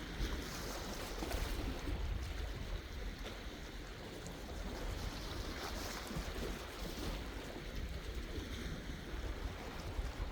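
Sea waves washing and breaking, a steady rushing that swells and eases, with low wind rumble on the microphone.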